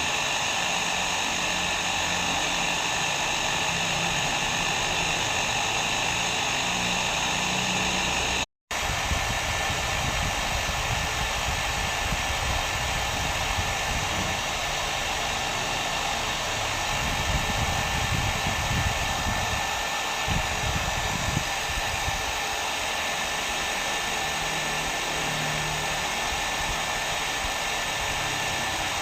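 Hair dryer running steadily, a continuous rush of blown air with a motor hum. About a third of the way through it drops out for a split second and comes back with a slightly changed tone.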